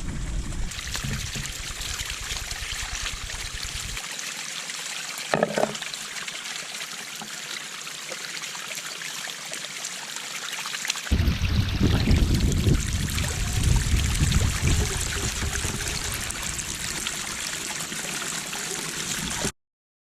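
Creek water running steadily. Gusts of wind buffet the microphone for the first few seconds and again through the second half, and the sound cuts off suddenly near the end.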